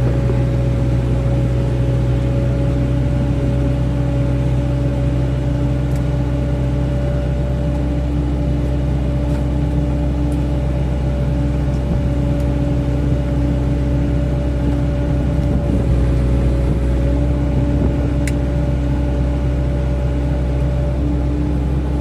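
Excavator's diesel engine running steadily under working load, with a steady whine over the low engine drone.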